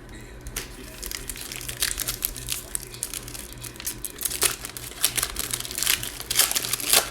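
Crinkling plastic wrapper of a trading card pack being handled and opened, a dense crackle that grows louder toward the end.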